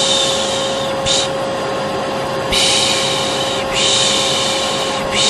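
A vacuum cleaner motor runs steadily with a constant hum. Over it come repeated long 'shh' shushes, about four of them, the 'piş piş' hush used to soothe a baby to sleep.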